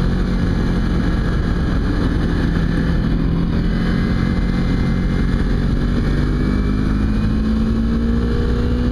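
Kawasaki Ninja 250 parallel-twin engine running steadily under way, over a dense rush of wind and road noise. About two-thirds of the way through, its pitch climbs slowly as the bike gains speed.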